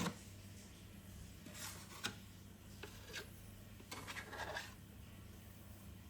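A few short scraping and rubbing sounds, with a sharp click about two seconds in and a cluster of scrapes a little past the middle.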